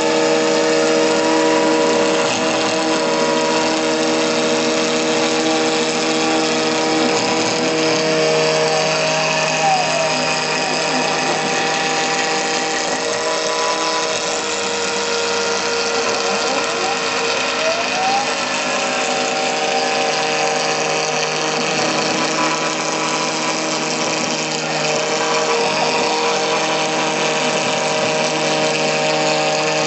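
CNC router spindle running at about 15,000 rpm while a 6 mm cutter mills acrylic sheet: a steady whine with several held tones, and a few brief tones sliding up and down as the machine's axes move.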